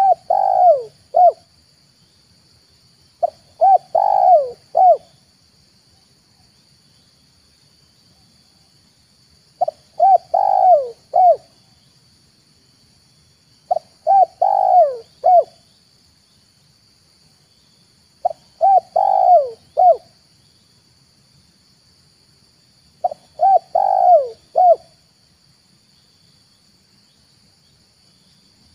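Spotted dove (tekukur) cooing its rhythmic multi-note call, six phrases of three or four notes, one every four to five seconds: the lure call used to draw in wild and captive spotted doves.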